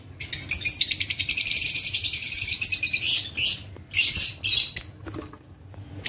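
Small cage birds chattering: one long, rapid, high-pitched chatter lasting about three seconds, followed by a few short chirps.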